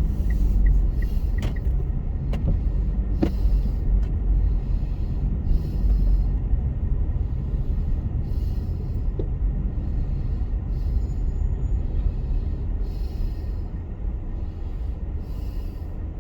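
Car interior road rumble while driving on a snowy road, steady and low. An evenly spaced ticking stops about a second in, and a soft swish recurs every couple of seconds.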